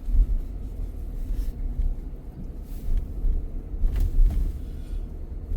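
Low, uneven road rumble of a car driving on a rough, worn road surface that needs resurfacing.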